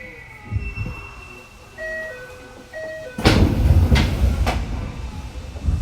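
Tokyo Metro 7000-series train standing at a platform: a short electronic door chime sounds its notes, then about three seconds in the doors slide open with a sudden rush of noise and low rumble, with two sharp clicks as they reach the end of their travel.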